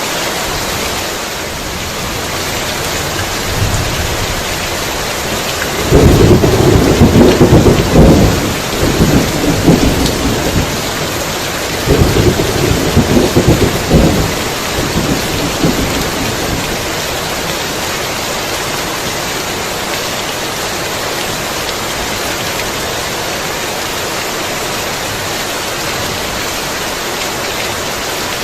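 Heavy rain falling steadily, with thunder rumbling twice: a loud peal about six seconds in that dies away over a few seconds, and a second rumble about twelve seconds in.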